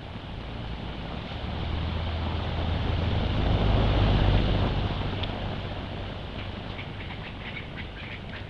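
A motor vehicle passing by, growing louder to a peak about four seconds in, then fading. Near the end a run of short, high squeaks starts up.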